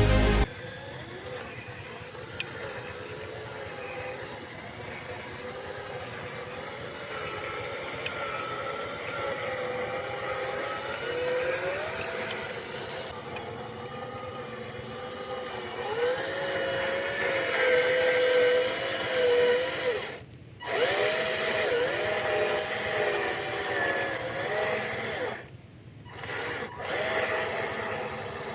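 Small electric motor and gearbox of a radio-controlled model truck whining, the pitch rising and falling as the throttle is worked. The whine cuts out briefly twice, about two-thirds of the way through and again near the end.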